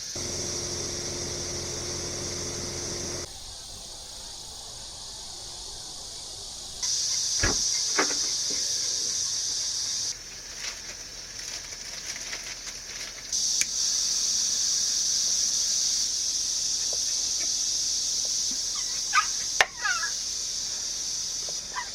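Steady, high-pitched chorus of summer insects, its level stepping up and down several times. A low hum runs under it for the first few seconds, and a few light clicks and knocks come through.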